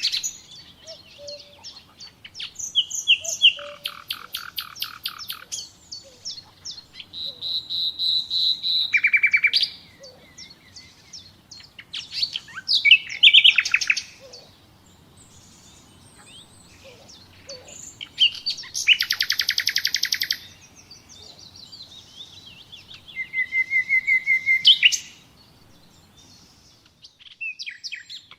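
Common nightingale singing: separate phrases a second or two long with pauses between, built of fast repeated notes and rattling trills, with a clear held whistle about eight seconds in.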